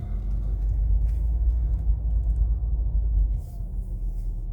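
Low rumble of a 2020 Infiniti Q50's twin-turbo 3.0-litre V6 and drivetrain, heard inside the cabin as the car moves slowly. The rumble eases off about three and a half seconds in.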